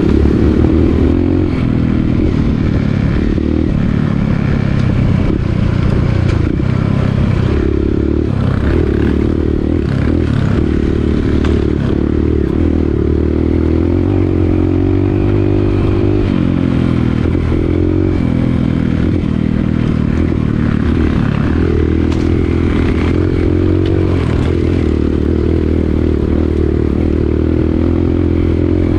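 Dirt bike engine running steadily as the bike is ridden along a trail, its pitch dipping and rising several times with the throttle.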